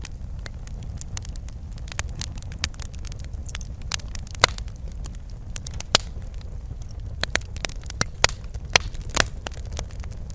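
Wood fire crackling in a fireplace: irregular sharp pops and snaps over a steady low rumble of burning, with several louder pops in the second half.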